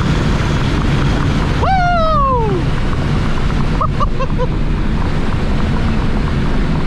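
A car driving at speed: a loud, steady rush of wind and road noise over a low engine hum. About two seconds in, one loud whoop jumps up and slides down over about a second, and a few short chirps follow about two seconds later.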